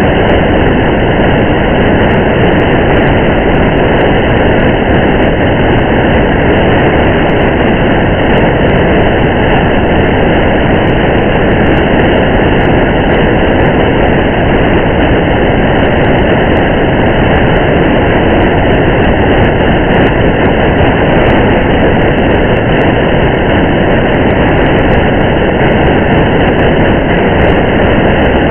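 Steady rain together with the road noise of a moving car: an even, unbroken hiss with faint scattered ticks.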